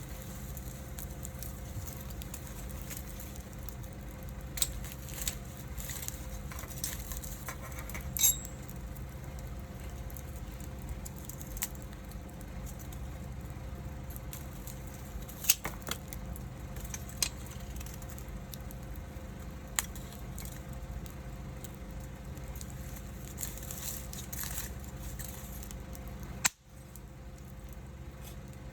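Wood fire burning with a steady low rush and scattered sharp crackles and pops, about nine over the stretch. The sound briefly cuts out near the end.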